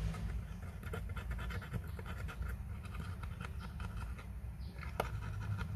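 Light scratching and many small clicks of hand tools working on a watch movement, with one sharper click about five seconds in, over a steady low hum.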